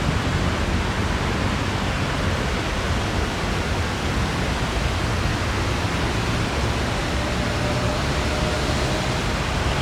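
A passing long-distance train: a steady, loud rushing rumble of wheels running on the rails.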